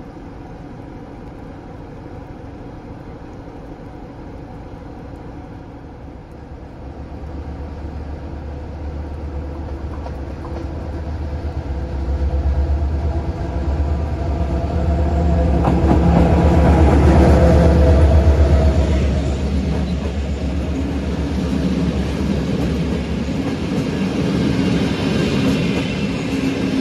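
Diesel locomotive-hauled passenger train approaching, its engine drone swelling to a loud peak about two-thirds of the way through, then easing off, with rail noise carrying on after the engine note fades.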